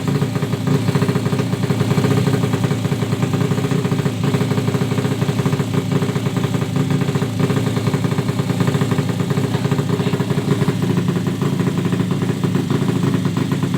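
Yamaha Jupiter motorcycle's single-cylinder four-stroke engine, set up at 130cc, idling steadily with a fast, even beat.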